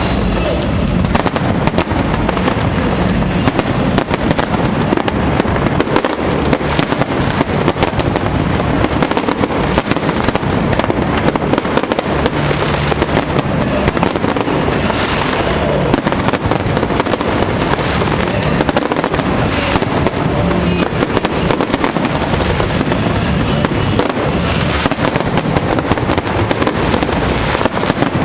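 A dense, continuous fireworks display: many shells bursting and crackling with no pause between them, with background music under it.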